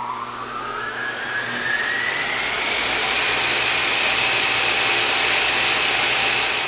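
A machine's motor spinning up: a whine rising in pitch over the first few seconds and then holding steady, over a low steady hum and a hiss.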